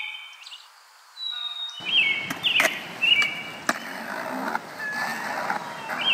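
Small birds chirping in short, repeated notes. From about two seconds in they are joined by a rushing noise with several sharp clicks.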